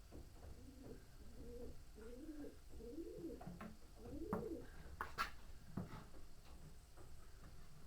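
A pigeon cooing, a run of low rolling coos over the first four seconds or so. Several sharp clicks and taps come between about three and a half and six seconds in.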